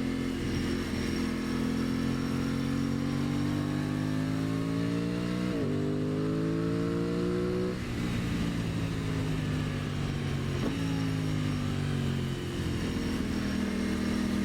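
2023 Aprilia Tuono 660's parallel-twin engine pulling uphill, heard from the rider's position. Its pitch rises for the first several seconds, drops sharply about eight seconds in, then holds mostly steady with a couple of quick blips, over a steady rush of wind.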